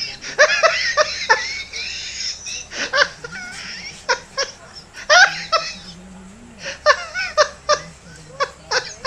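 Laughter in repeated short bursts, coming in several clusters with brief pauses between them.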